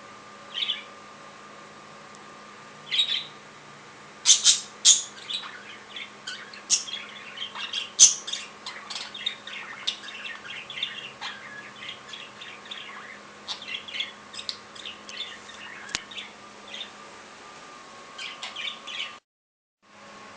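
Budgies chirping and chattering in quick, short high calls: a few single chirps at first, then from about four seconds in an almost continuous busy run. A faint steady hum lies underneath, and all sound cuts out for about a second near the end.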